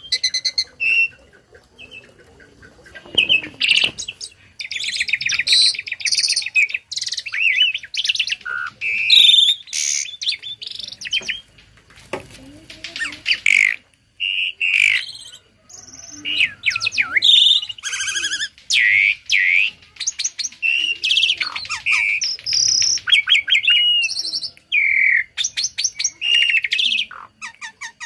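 Tame starling singing a loud, varied song of whistled notes and fast trilled and chattering phrases, full of mimicked bits of other birds' songs, with brief pauses between bursts.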